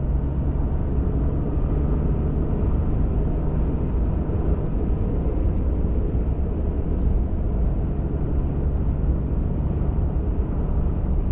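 Ford F-150 Raptor pickup driving at a steady pace: a constant engine drone under low tyre and road rumble.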